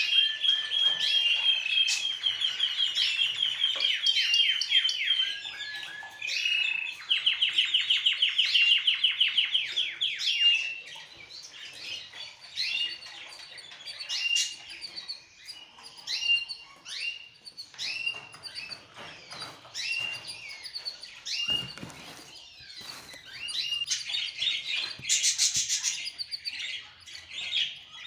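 Pet birds chirping and calling: dense runs of fast, high repeated chirps for the first ten seconds or so, then scattered single calls, with a louder, noisier burst of calls about 25 seconds in.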